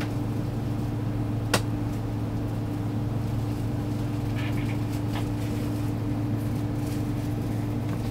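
Steady low hum of an Airbus A330-300 passenger cabin before takeoff, air-system and aircraft drone with a constant low tone, and one sharp click about a second and a half in.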